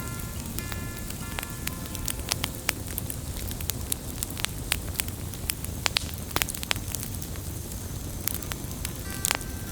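Wood fire burning, crackling with frequent sharp pops over a steady low roar.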